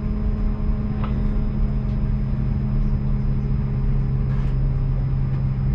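Steady low hum inside an Airbus A330-200 cabin before departure, a few steady pitched tones over an even rumble from the aircraft's ventilation and systems, with a couple of faint ticks.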